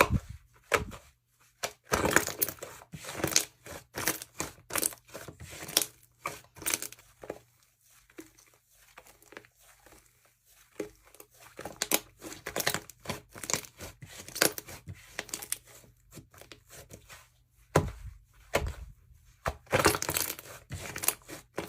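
Bead-filled jewelry slime squeezed and pressed by hand, making clustered bursts of crackling and clicking. Quieter stretches fall around the middle and about three-quarters of the way through.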